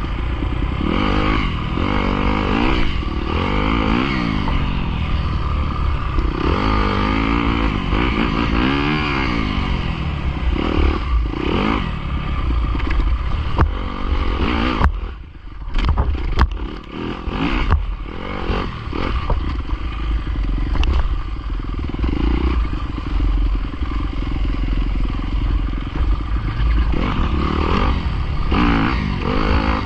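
Small dirt bike engine being ridden hard, its pitch rising and falling again and again as the rider revs up and shifts or backs off. A heavy low rumble runs under it. About halfway through the engine drops off briefly among a few sharp knocks, then picks up again.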